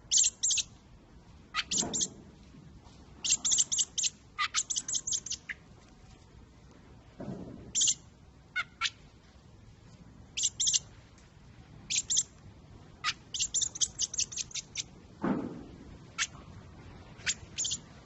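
A fledgling bird giving sharp, high chirps, some single and some in quick runs of several notes, with short pauses between runs.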